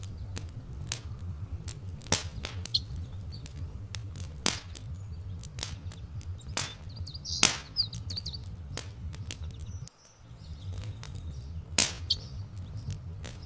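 Wood fire crackling with irregular sharp pops over a low steady rumble, while small birds chirp now and then, including a quick run of chirps about seven seconds in.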